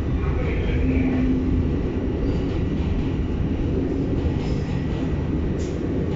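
New York City subway N train running between stations, a steady low rumble of wheels on track, with a brief high wheel squeal about a second in.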